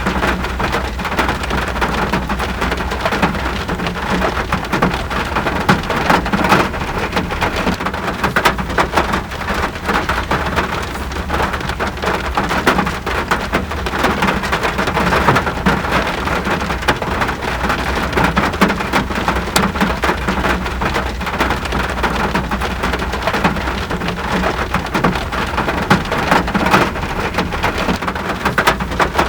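Steady rain: a dense, even patter of raindrops striking a surface, with countless small drop ticks.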